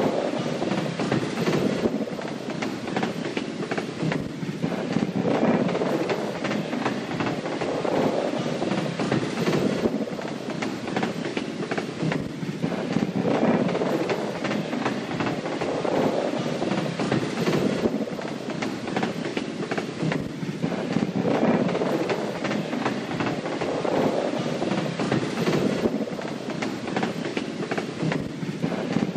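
Train running along the track: a steady rumble of wheels on rails that swells and eases every few seconds.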